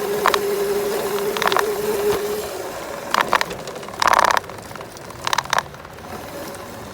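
Small dirt bike engine running steadily, then easing off about two and a half seconds in. Several short clattering knocks and rattles come as the bike goes over bumpy ground, the loudest just after four seconds.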